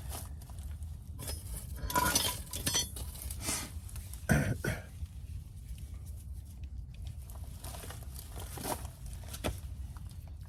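Metal tools and brake parts clinking and knocking as they are handled during a brake pad change: scattered clinks, with the loudest knocks about two seconds in and again near the middle.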